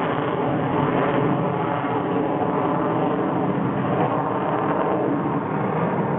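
Avro Vulcan bomber's four Rolls-Royce Olympus turbojets running in flight, a loud, steady jet noise.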